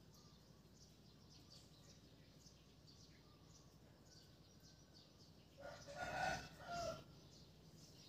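A bird gives one loud, pitched call in two parts lasting about a second and a half, starting a little past the middle. Faint, short bird chirps sound in the background throughout.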